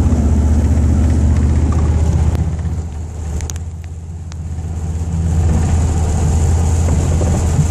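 1995 Chevrolet Silverado pickup driving in third gear at highway speed: a steady low engine and road drone that eases off about a third of the way in and builds back up, with a few faint clicks in the quieter middle. The owner is trying to catch a mystery noise and rattle that comes at 50-60 mph, which she suspects is an alignment problem.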